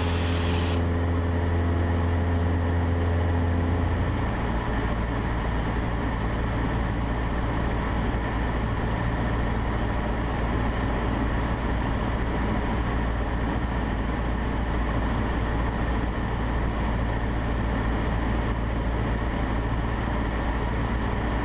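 Cessna 150's four-cylinder Continental O-200 engine and propeller droning steadily at climb power, heard inside the cockpit. About four seconds in, the deepest hum shifts and stays at its new pitch.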